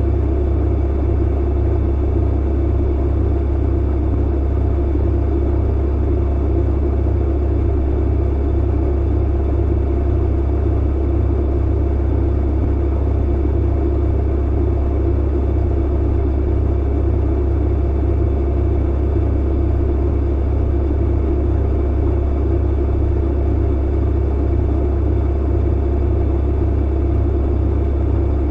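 Clothes dryer running steadily: a strong low hum under an even rumble of the tumbling drum, unchanging throughout.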